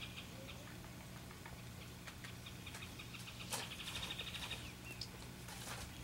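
A small bird's rapid, even trill, a quick string of high notes lasting about a second, heard a little past the middle. Around it are a few light clicks.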